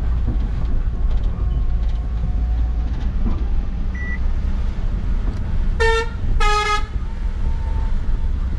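Steady low rumble of a truck running, with a vehicle horn honking twice in quick succession about six seconds in, the second blast a little longer.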